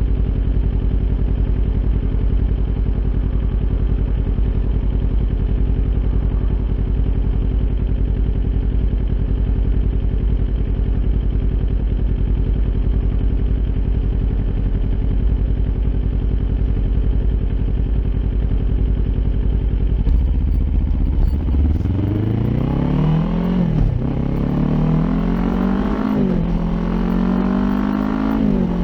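Kawasaki Ninja 400's parallel-twin engine, with an Akrapovic aftermarket exhaust, running steadily at idle. About three-quarters of the way through it pulls away, revving up and shifting up three times, the pitch dropping back at each shift.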